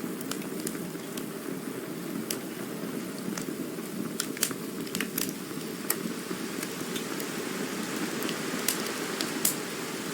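Campfire burning: a steady low rush of flames with frequent sharp crackles and pops of burning wood, scattered at irregular intervals.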